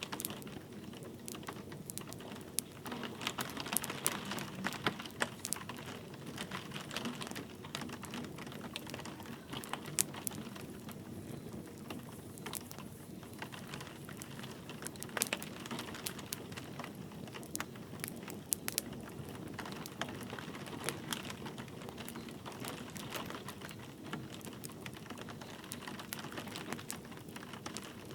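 Wood fire crackling with frequent sharp pops and snaps over a steady patter of light rain.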